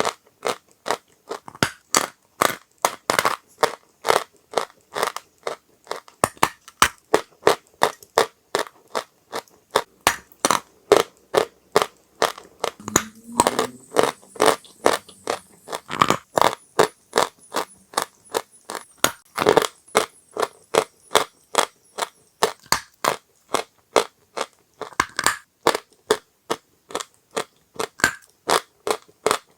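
Dry chalk being crunched: a continuous run of sharp, dry crunches, about two to three a second.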